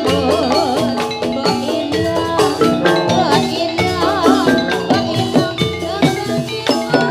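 Javanese gamelan music accompanying a jathilan dance: bronze metallophones and drums playing a fast, dense rhythm, with a wavering melodic line over them.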